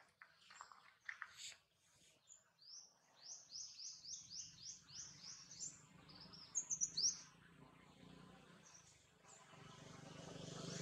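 A small bird chirping: a quick run of about ten high rising notes, then a few more high notes, faint, with a few soft ticks before it.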